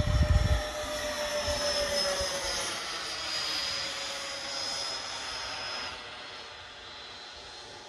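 Electric ducted fan of a radio-controlled MiG-29 model jet whining in flight, its pitch sliding slightly lower as it passes and fading away near the end. Wind rumbles on the microphone briefly at the start.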